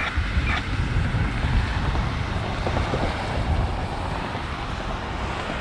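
Wind blowing across the microphone: a steady low rumble with hiss.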